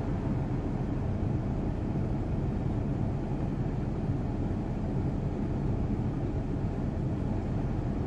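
Car engine idling, a steady low rumble heard inside the cabin of the stationary car.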